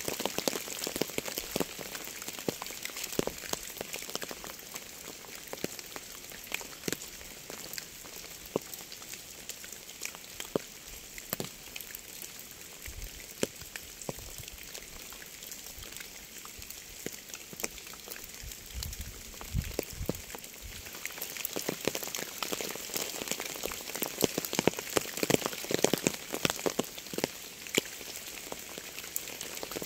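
Steady rainfall, an even hiss with many individual drops striking close by as sharp ticks. The drops grow denser and louder about two-thirds of the way through, and there are a few brief low thumps near the middle.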